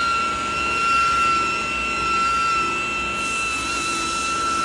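Electric buffer with a wool cutting pad running at a steady high whine while cutting a headlight lens, the pitch wavering slightly under load.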